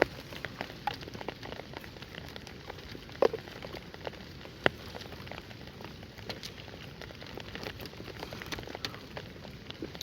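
Light rain falling, a steady hiss dotted with small sharp ticks of drops, with two louder clicks about three and four and a half seconds in.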